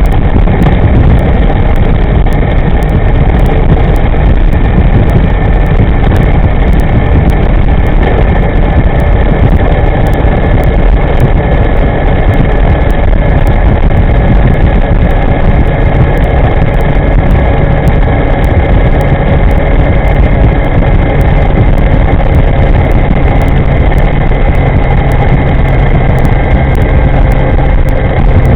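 Wind buffeting the microphone on a moving electric scooter, a dense steady rumble. Under it a faint whine drifts slowly in pitch with the scooter's speed.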